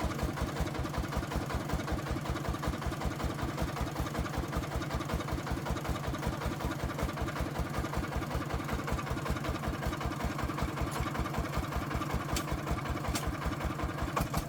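Agricultural truck's diesel engine idling steadily, an even chugging of about six or seven beats a second.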